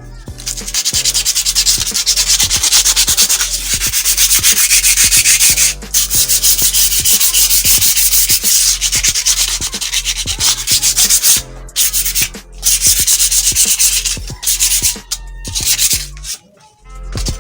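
Sandpaper scrubbed rapidly back and forth over a stripped bicycle frame: the final sanding that takes off the last traces of old paint before priming. The scrubbing stops briefly a few times and ends shortly before the end.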